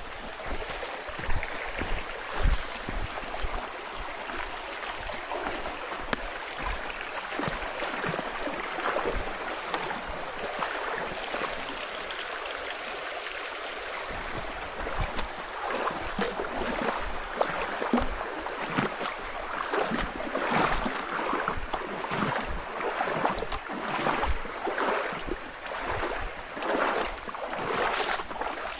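River water rushing steadily. From about halfway through, footsteps come in an even walking rhythm about once a second over the water.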